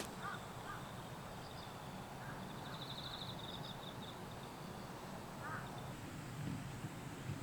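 Faint bird calls over a steady hiss of outdoor ambience: a rapid high trill about three seconds in, and a few short chirps.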